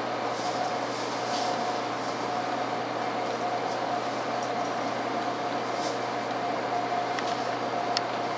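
Steady running noise inside a 700 series Hikari Rail Star shinkansen car: a constant hum with a steady mid-pitched tone and a few faint clicks.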